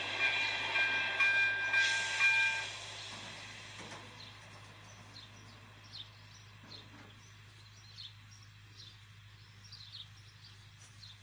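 Passing-train noise, a rushing rumble with a few steady high tones over it, fades away about three seconds in. After that, birds chirp repeatedly over a quiet background.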